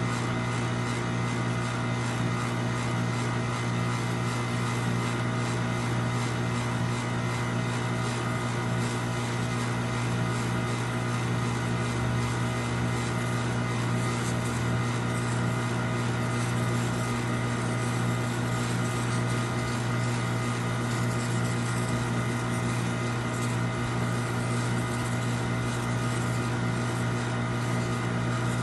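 A machine running with a steady, unchanging drone: a strong low hum with several steady tones above it.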